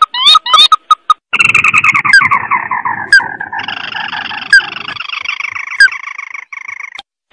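Crake (tikusan) calls played as a bird lure: a quick run of short rising notes, then a dense, fast trilling chatter that slides down in pitch and fades near the end. Sharp chirps cut through it about once a second.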